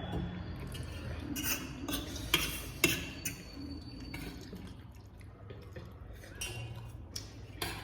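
Cutlery clinking against a dish while eating noodles at close range: a cluster of sharp clicks from about a second and a half in, then a couple more near the end.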